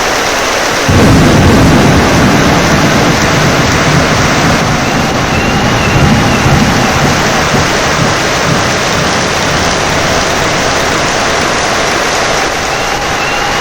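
Steady heavy rain, with a rumble of thunder that breaks in suddenly about a second in and rolls on, fading over several seconds.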